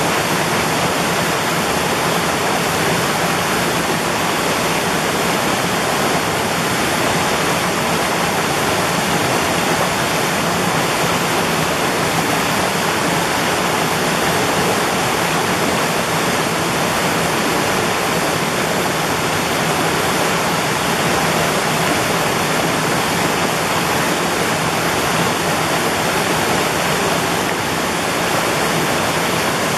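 Mountain valley stream, its water rushing in a steady, unbroken torrent.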